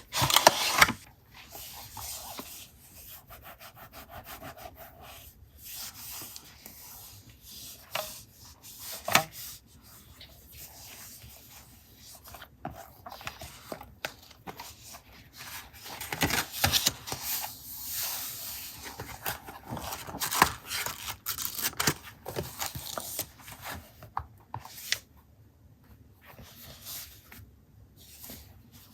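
Paper being handled and rubbed on a journal page, an uneven rustling and rubbing with a few sharper crinkles or taps.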